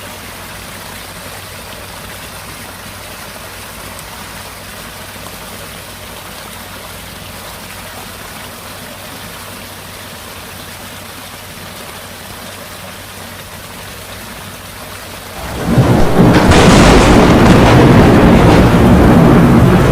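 Steady heavy rain. About three-quarters of the way through, thunder breaks in suddenly and loudly and keeps rumbling.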